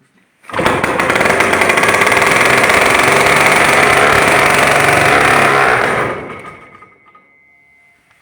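DT-75 crawler tractor's engine starting after an overhaul: it bursts into loud running about half a second in, runs steadily for about five seconds, then dies away over about a second. A faint steady high whine is left near the end.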